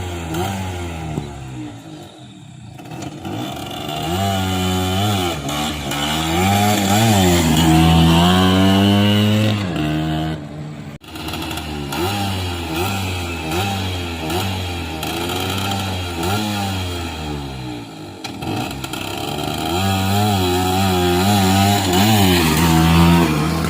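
Motorcycle engine with a big-box aftermarket exhaust, revved up and let fall back again and again, with a short break about eleven seconds in and a longer, higher rev near the end.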